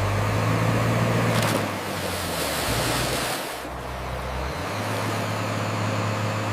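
Heavy diesel machinery engine running, with a steady low hum that shifts pitch a few times and a rushing noise that swells about a second and a half in.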